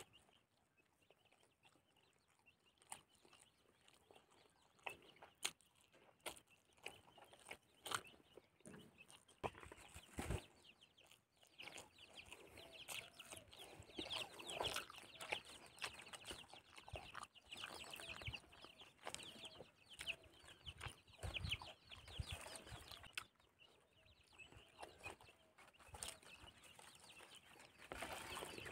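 Soft chewing and mouth clicks of someone eating rice and fish with his fingers. Birds call in the background, busiest in the middle of the stretch.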